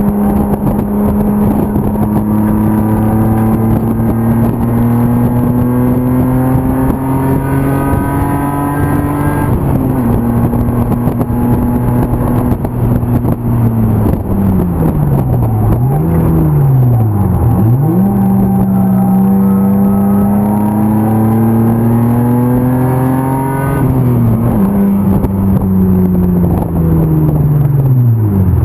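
BMW E36 325's M50 inline-six race engine pulling hard under load, its pitch climbing steadily through the gears. The revs drop sharply about a third of the way in and again near the end, and in the middle they fall and rise quickly a couple of times.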